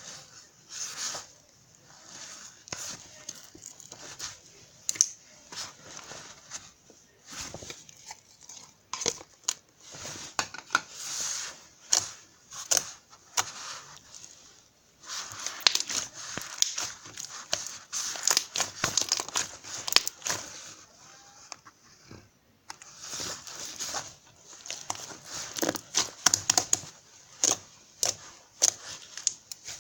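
Irregular crinkling and rustling handling noises with many sharp clicks, coming in uneven bursts.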